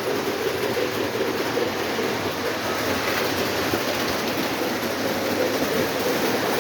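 Several Lionel O27 toy trains running together on their track: a steady rumble of wheels and motors with a wavering hum.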